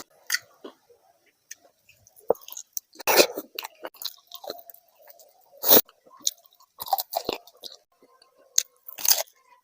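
Close-miked eating: a person chewing food with irregular wet clicks and a few louder crunching bites.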